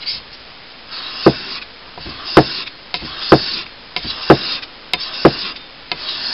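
Steel blade stroked back and forth on a wet sharpening stone, its bevel laid flat on the stone: about one stroke a second, each a short gritty scrape ending in a sharp knock, five times.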